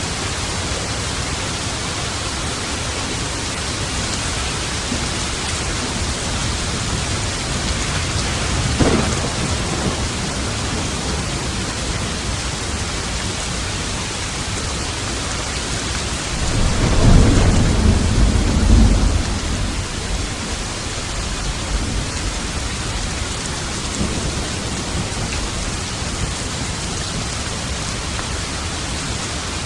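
Steady heavy rain with thunder: a short, sharp clap about nine seconds in, then a longer, louder low rumble a little past the middle.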